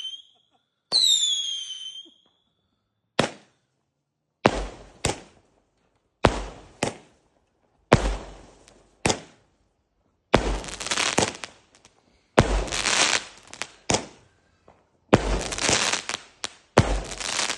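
Fireworks going off: a high whistle falling in pitch about a second in, then a run of sharp bangs, roughly one a second, the later ones with crackling tails.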